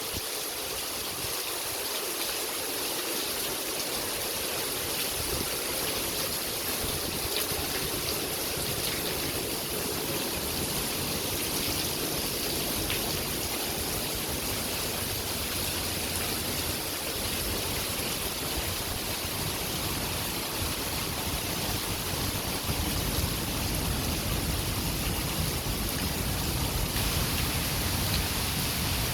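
Heavy rain falling steadily, a dense even hiss of water, with a low rumble building in over the last several seconds.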